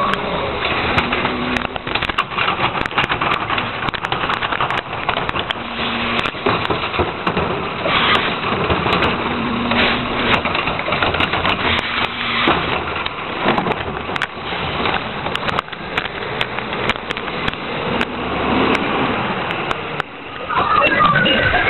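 Heil 5000 rear-loader garbage truck working, its engine running under a busy clatter of knocks and rattles, with a few brief low steady tones along the way.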